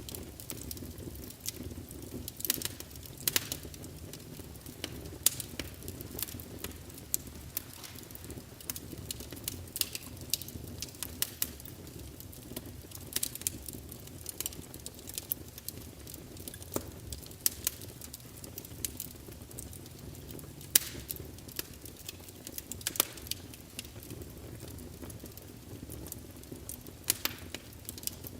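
Wood fire of burning logs crackling and popping, sharp irregular snaps over a low steady rumble of the flames.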